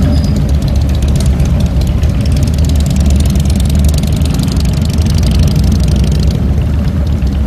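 2007 Harley-Davidson Fat Boy's Twin Cam 96 V-twin engine running steadily at low revs.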